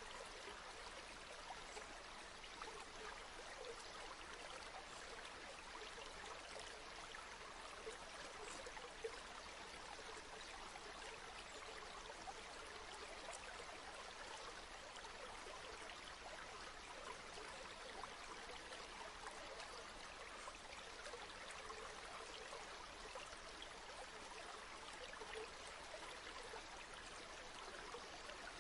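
River water flowing, a steady faint rush with small splashes and trickles over it.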